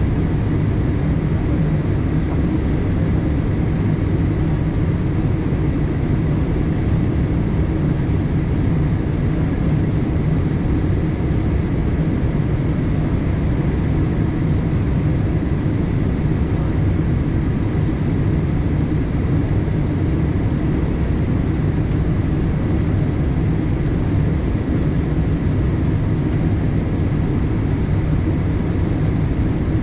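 Steady cabin noise inside a Boeing 787-8 airliner: a constant low rush of engine and airflow noise, with a few faint steady tones above it, unchanging throughout.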